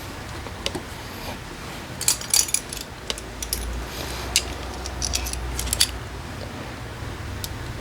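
Metal hand tools and small parts clinking and clicking, in a cluster of sharp clicks about two seconds in and another near six seconds, over a low steady hum.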